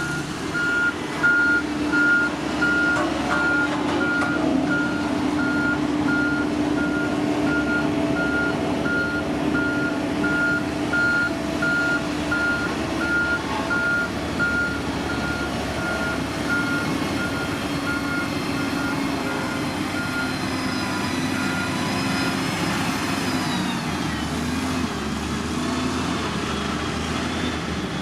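Backup alarm on a heavy construction machine beeping steadily over its running diesel engine. The beeping stops a few seconds before the end, as a whine falls in pitch.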